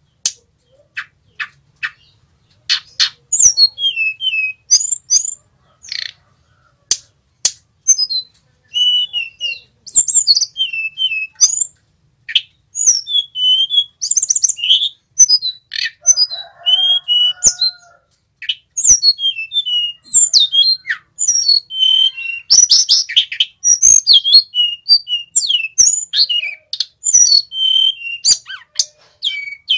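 Male sulingan gunung (tledekan gunung, a blue flycatcher) singing. The first few seconds hold scattered short, sharp notes; from about nine seconds in come rapid, varied whistled phrases with quick rolling trills.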